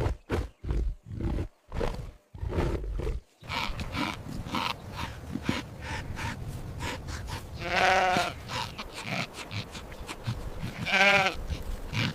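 A big cat's short, deep grunting roars for the first three seconds or so, then a sheep bleating twice, about eight seconds in and again near the end, over a rustling, clicking outdoor background.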